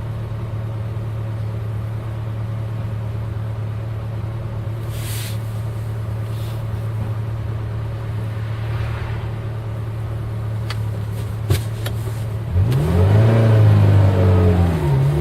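Eight-cylinder car engine running at a steady drone. About twelve seconds in it gets louder and its pitch rises and then falls back as it is revved.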